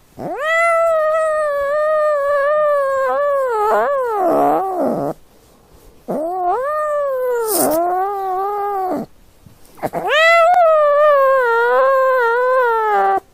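A cat giving three long, drawn-out meows with a wavering pitch, the first about five seconds long and the other two about three seconds each, separated by short pauses.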